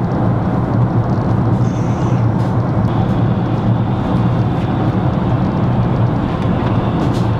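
Steady cabin noise of an airliner in flight: the even roar of engines and airflow.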